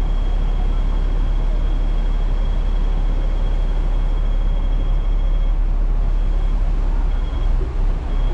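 Hong Kong double-decker electric tram running along its track: a steady low rumble with a faint high whine, dipping briefly near the end.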